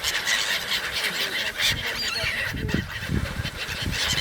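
Gulls calling, harsh calls overlapping one another.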